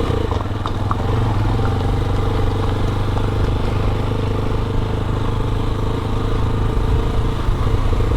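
Motorcycle engine running steadily while riding at low speed.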